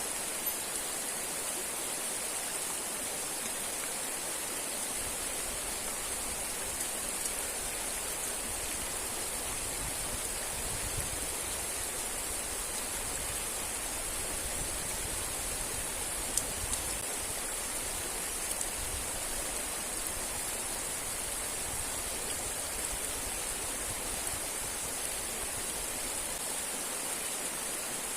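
River and waterfall water rushing steadily, with a few faint clicks.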